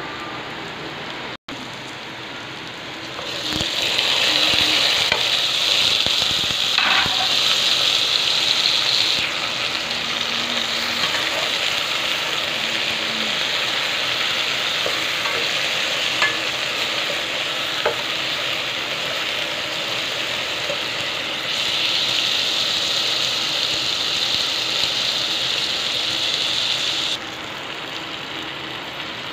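Onions, green chillies and tomatoes frying in hot oil in a metal pot, sizzling steadily while being stirred with a metal slotted spoon that clicks against the pot now and then. The sizzle grows louder about three seconds in and again past the twenty-second mark, for several seconds each time.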